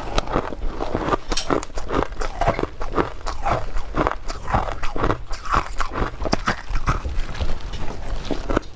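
Shaved ice being bitten and chewed, with dense, irregular crunches several times a second.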